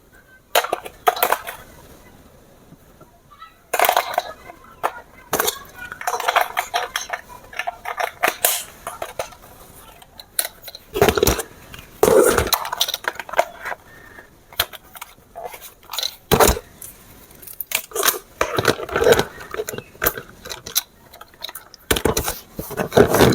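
Plastic toy parts and packaging being handled, making irregular clicks, knocks and rattles.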